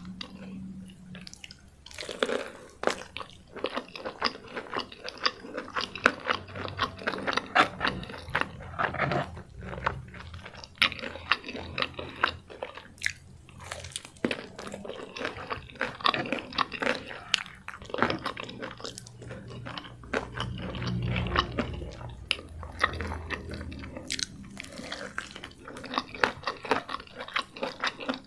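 Close-miked biting and chewing of crispy fried chicken, the fried coating crunching in many short crackles.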